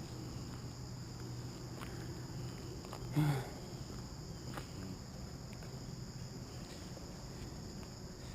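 Steady high-pitched chorus of insects, crickets or katydids, with a brief low sound about three seconds in.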